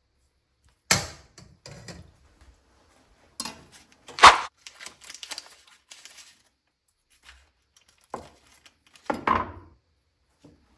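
Kitchen handling sounds at the cutting board while mortadella is sliced: a few separate knocks and clacks of a knife and utensils, the loudest about four seconds in, with light rustling between them.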